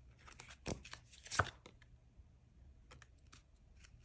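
Tarot cards being handled on a table: a few short taps and rustles, two sharper ones within the first second and a half, then fainter ones.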